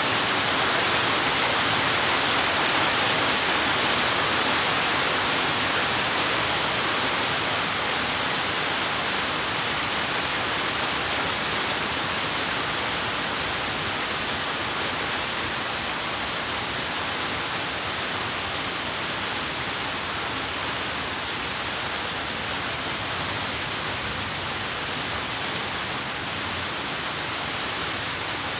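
Heavy rain falling steadily, a dense even hiss that grows slightly softer toward the end; no thunder is heard.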